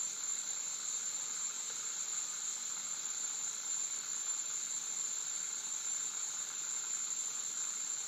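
Steady hiss with a constant, thin high-pitched whine and no programme sound: background noise of an old off-air TV recording during a gap between commercials.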